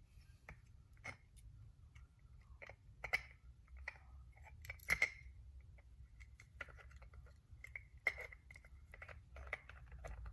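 Scattered light clicks and small metallic taps of Andis Master clipper parts being handled by hand, some with a brief ring, as the clipper's metal arm is set into place.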